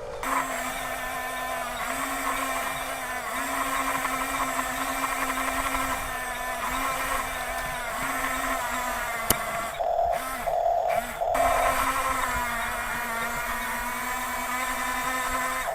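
Small electric motors and plastic gearboxes of a radio-controlled toy construction vehicle whining as they drive, the pitch dipping and recovering again and again as the controls are worked. The whine breaks off in short gaps about ten seconds in, and there is a single sharp click just before.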